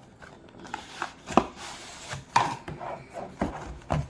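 A cardboard product box being handled and opened by hand: irregular knocks, taps and scraping of the packaging, the sharpest knock about a second and a half in.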